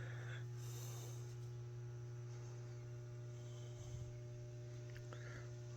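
Steady electrical mains hum, a low drone with fainter higher tones above it, from live power still in the building. A soft knock about four seconds in.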